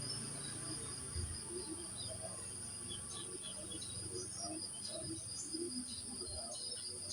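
Crickets trilling in a steady, high-pitched drone, with short bird chirps scattered over it.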